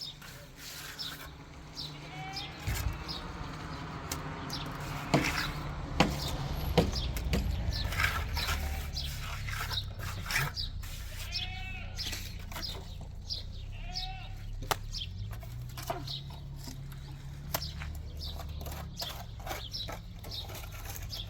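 Sheep and goats bleating, many short calls, one after another, with scattered sharp clicks and knocks and a low steady rumble underneath.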